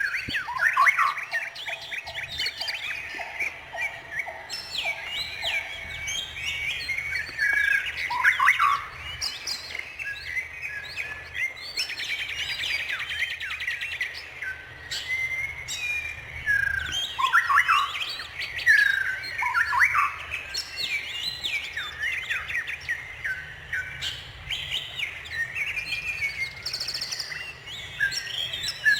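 Several songbirds chirping and singing, with many quick chirps, trills and sweeping whistles overlapping without pause. A lower note repeats about twice a second through the first six seconds.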